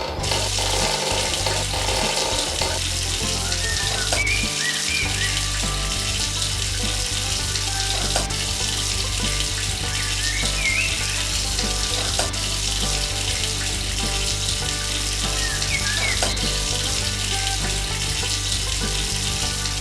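Steady crackling hiss over a low, even hum, with a few short high chirps scattered through it.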